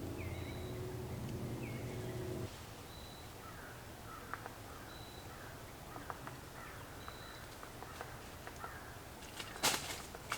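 Crows cawing faintly after a steady low hum stops about two and a half seconds in, with a few clicks and a sharp knock near the end.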